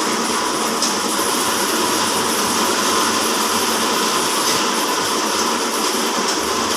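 Electric-motor-driven horizontal band sawmill running steadily, its motor and band blade giving an even mechanical noise with a faint steady whine.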